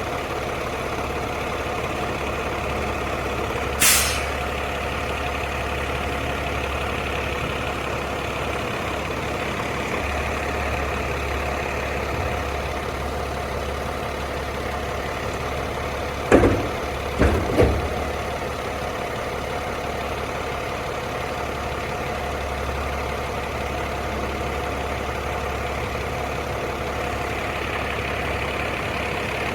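Garbage truck engine idling steadily. About four seconds in there is a short hiss of air, and just past halfway there are three heavy knocks.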